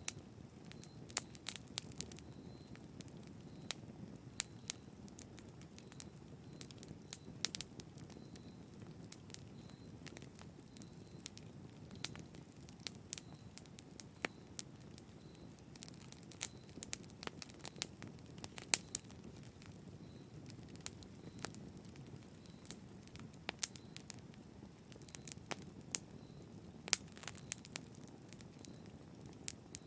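Fire in a fireplace crackling: irregular sharp pops and snaps, a few much louder than the rest, over a steady low rush of the flames.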